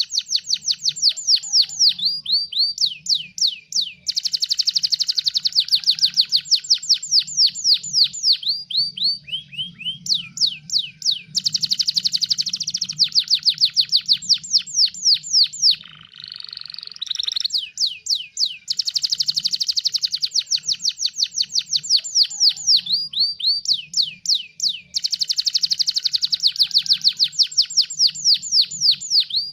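Domestic canary singing continuously in fast trills: each phrase is a rapid run of repeated chirps, about nine or ten a second, lasting a few seconds, with brief gaps between phrases. About halfway through there is a short, harsher, steadier note.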